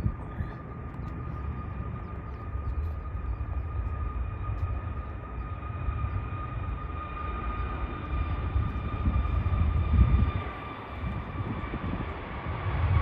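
Jet airliner engines running, a steady high whine over a low rumble, swelling briefly about ten seconds in.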